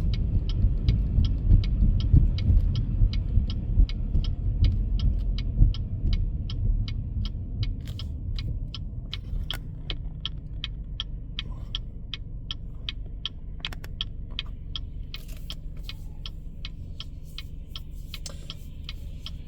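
A car's turn-signal indicator clicking steadily, about two and a half ticks a second, over the low rumble of the car's engine and road noise, which fades over the first half as the car slows.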